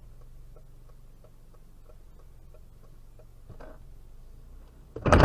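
Steady ticking, about four ticks a second, over a low hum, with a louder sudden sound starting just at the end.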